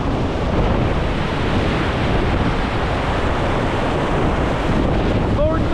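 Loud, steady rush of whitewater river rapids, with wind noise on the microphone.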